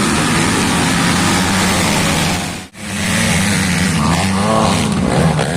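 Motocross bike engines running loud, broken by a short dropout about two and a half seconds in; from about four seconds in, an engine revs up, climbing in pitch.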